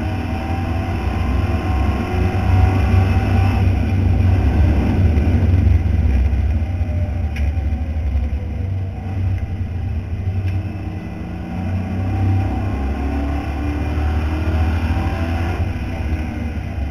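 V8 race car engine at racing speed, heard from inside the car: a loud, steady low rumble whose pitch climbs, drops and climbs again as the throttle is worked.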